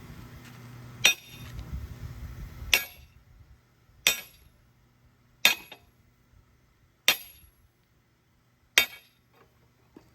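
Six heavy hammer blows on steel, each with a short metallic ring, about one and a half seconds apart, driving out a stuck excavator track chain pin. A low rumbling noise underlies the first three blows' start and fades after about three seconds.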